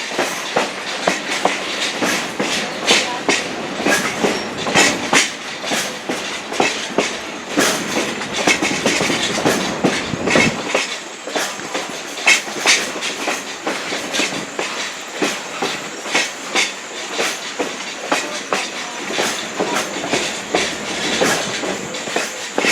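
Passenger coach wheels clacking over rail joints on a moving train, heard from on board: irregular sharp clicks several times a second over a steady rolling noise.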